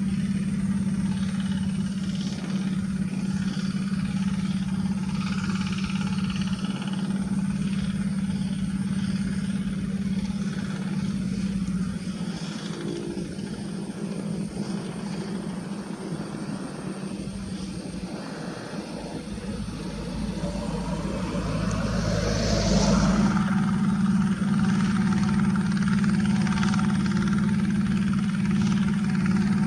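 Diesel engine of a two-wheel rotary hand tractor running steadily. It falls a little quieter partway through, then grows louder again about two-thirds of the way in.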